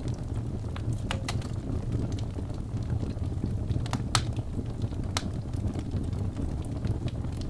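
Wood fire burning in a fireplace: a steady low rumble of flames with scattered sharp crackles and pops from the logs, the loudest a little after four seconds in.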